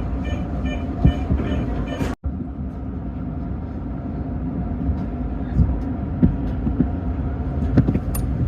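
Electric commuter train's low running rumble. For the first two seconds a rapid electronic beeping, about three beeps a second, sounds over it; then the sound cuts out abruptly for an instant. After that the train's rumble returns, slowly getting louder, with occasional clunks.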